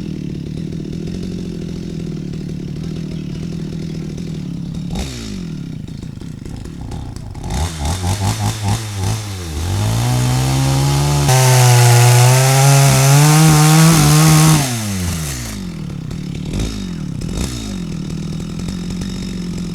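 Stihl MS 250 two-stroke chainsaw idling, then blipped several times in quick succession and held at high revs for about five seconds, growing louder and harsher partway through, before dropping back to idle with a couple more short blips.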